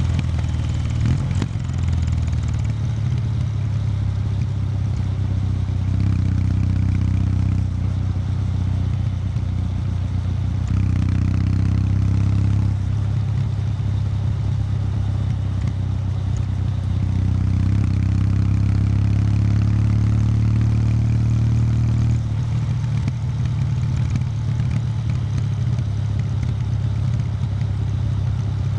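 Kawasaki W800 Street's air-cooled parallel-twin engine running through its stock exhaust at low road speed under light throttle. The note is steady, steps up about eleven seconds in, climbs slowly, then drops back about two-thirds of the way through as the throttle is eased.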